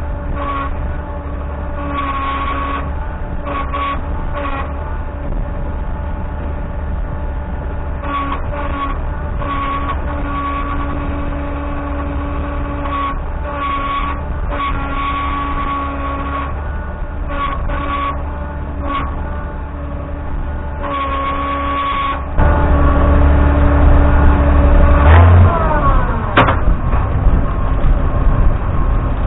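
Galion 503 grader's UD-236 diesel engine running steadily. About two-thirds of the way through it gets suddenly louder, and a few seconds later a falling whine sweeps down.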